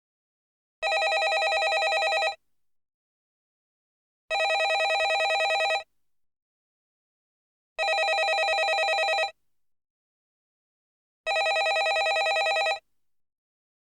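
Landline telephone ringing: four identical rings in a fast trill, each about a second and a half long, with about two seconds of silence between them.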